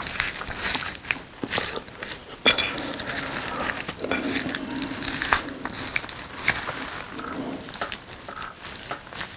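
Close-miked eating: chewing and biting of sauced boneless chicken with rice, a run of irregular wet clicks and crackles, with one sharp click about two and a half seconds in.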